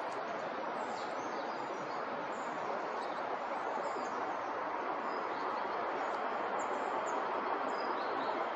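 Small birds chirping faintly and sporadically in short high notes over a steady, even rushing background noise.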